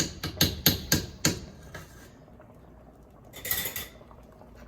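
A metal utensil clinking and knocking against a cooking pot, a quick run of sharp knocks in the first two seconds, then a short scrape a little past the middle.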